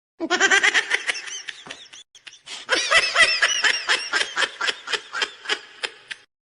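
High-pitched laughter in quick repeated pulses, several a second, with a brief break about two seconds in.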